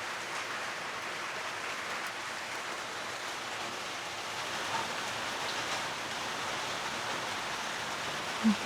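A steady, even hiss with no rhythm or pitch, with a short voice sound near the end.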